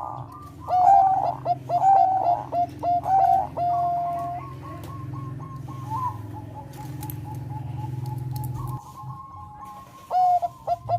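Zebra dove of the Thai 'perkutut bangkok' strain singing: a run of short, quickly repeated cooing notes, then a quieter stretch, then a fresh run of quick notes near the end.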